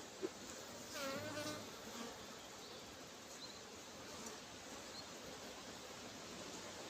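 Honeybees buzzing around an open hive during an inspection, a faint steady hum, with one bee flying close past the microphone about a second in, its buzz louder and wavering in pitch. A short click comes just before.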